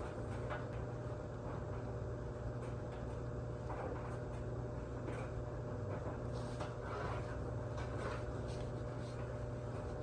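Tape being pulled and pressed down around a car headlight: soft, scratchy rubbing and peeling sounds every second or two over a steady low hum.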